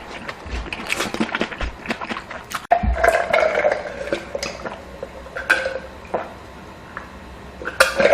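Close-miked mukbang eating sounds: wet chewing and slurping of noodles, with short clicks of utensils against a bowl. The first few seconds are mostly quick clicks; from about three seconds in, louder slurping takes over.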